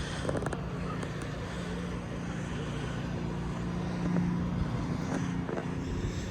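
Steady low mechanical hum with a constant drone and even background noise.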